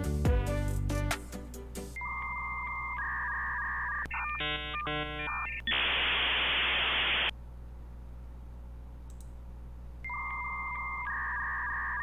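Electronic telephone-style tones like a dial-up modem connecting: a steady two-tone beep, a quick run of stacked chirping tones, then about a second and a half of hiss. The same beep-and-chirp sequence starts again near the end.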